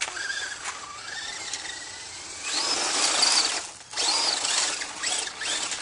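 Electric RC truck motor whining as it revs, with a faint rising whine at first, then two loud bursts of full-throttle running, each rising and falling in pitch.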